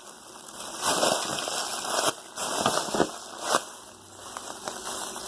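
Thin plastic trash bag stuffed with cotton, a homemade squishy, crinkling as it is handled, in several short bursts.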